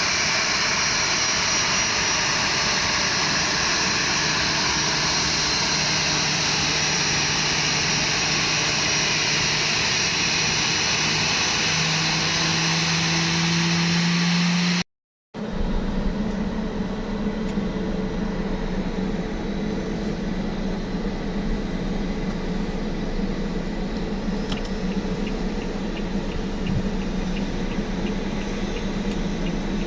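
Boeing 737-800 jet engines running with steady noise; an engine tone rises in pitch about twelve seconds in. Halfway through, the sound cuts off suddenly and comes back as a lower, steadier hum.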